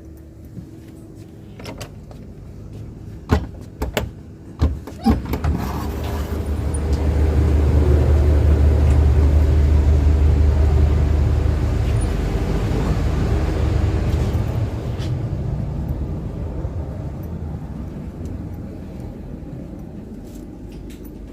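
A few sharp knocks and clacks, like a carriage door, then the low rumble of the moving train's wheels and running gear. The rumble swells loud for several seconds and slowly fades again.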